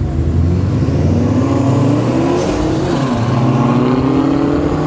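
Car engine accelerating, its pitch rising for about two seconds, dropping briefly about three seconds in, then rising again, over the steady low running of engines.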